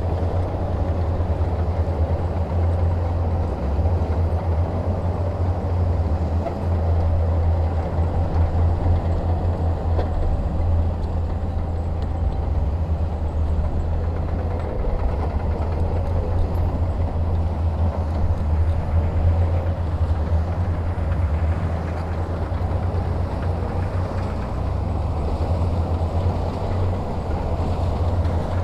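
Heavy diesel engine running steadily under load, a deep, even rumble with no breaks.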